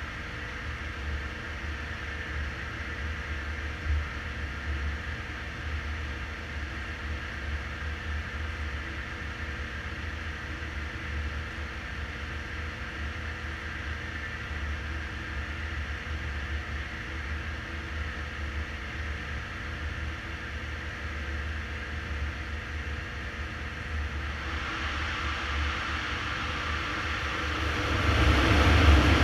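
BMW 320d's four-cylinder diesel engine idling on a chassis dyno, a steady low rumble, under the steady rush of a large cooling fan blowing into the front of the car. From about three-quarters of the way through, the noise grows brighter, and it gets louder near the end.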